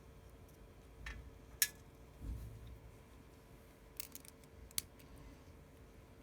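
Scattered light clicks and taps of small tools and parts while the home button bracket screws are taken out of an iPhone 6s screen, with a soft low thud about two seconds in. A faint steady hum underlies it.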